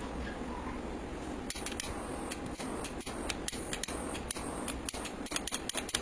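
A run of quick, irregular sharp clicks and snips from a small hand tool, starting about a second and a half in, over a steady low hum.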